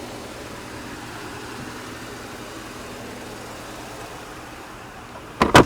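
2010 Ford F-150's 4.6L SOHC V8 idling steadily, then two loud clunks close together near the end as a side mirror is pushed back into position.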